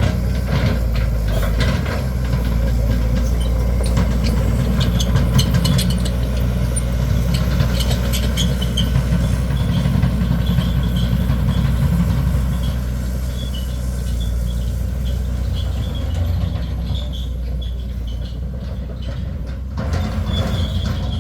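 Caterpillar 320D2 GC excavator's four-cylinder ACERT diesel engine running steadily, with light high-pitched ticking over it, dropping slightly in level about halfway through.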